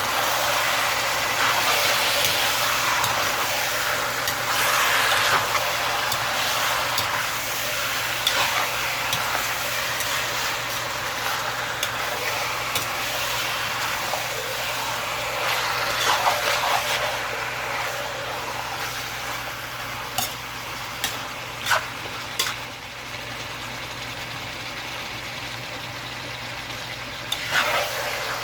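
Chicken sizzling as it fries in a pan and is stirred, with a spatula now and then clicking against the pan.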